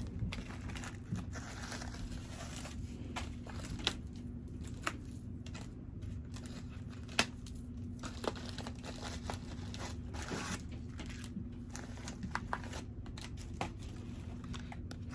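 A package being unwrapped by hand: paper and plastic wrapping crinkling and tearing on and off, with scattered small clicks and taps.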